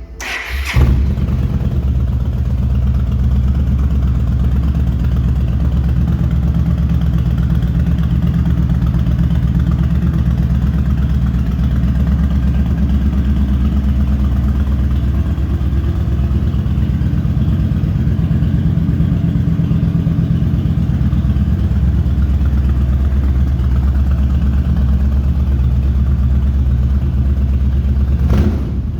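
Yamaha XVS1300CU Stryker's 1304 cc V-twin engine starting on its electric starter and catching within a second, then idling steadily; it cuts off near the end.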